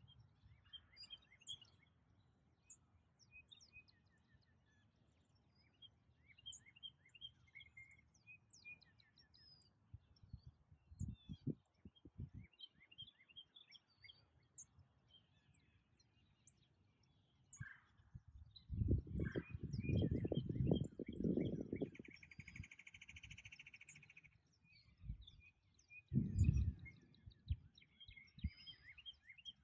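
Songbirds singing, with many short chirps and trills throughout. Low rumbles come in about a third of the way through, loudest and longest from about two-thirds through, and once more near the end, and a steady buzzy call sounds for about two seconds after the loudest rumble.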